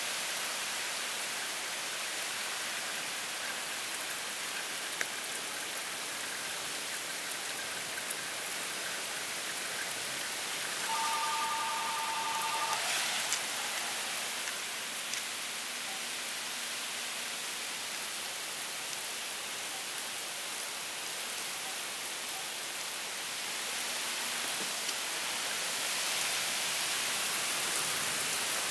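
Heavy rain falling steadily in a downpour, an even hiss. About eleven seconds in, a brief steady tone on two pitches at once sounds for under two seconds.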